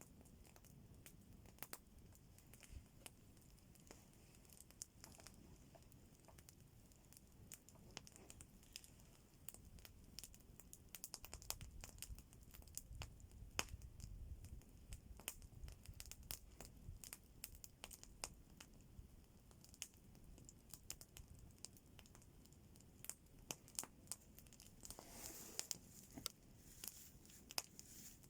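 Faint wood campfire crackling, with scattered sharp pops and snaps at irregular intervals. There is a brief soft rush of noise about 25 seconds in.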